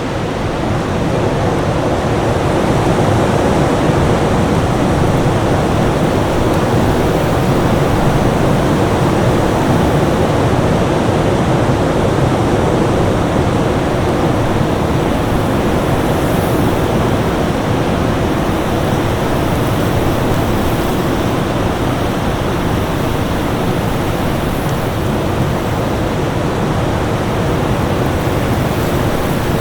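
Winter storm ambience: a steady, dense rush of wind noise with a faint steady tone underneath.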